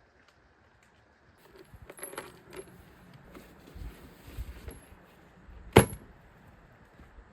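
Metal objects being handled: light metallic rattling and clinking, then one sharp, loud metallic clink a little before the end.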